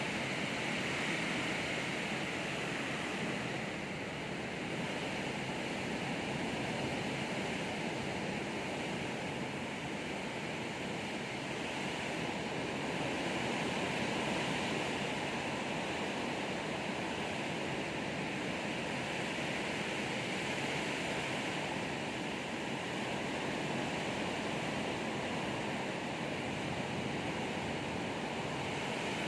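Heavy rain pouring down in a storm: a steady rushing hiss that swells and eases a little.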